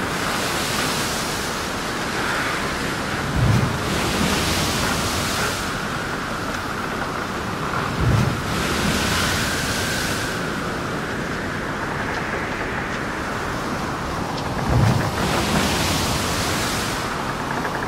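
Surf: waves breaking and washing in, each a low thump followed by a swelling hiss, repeating about every five seconds over a steady rushing noise.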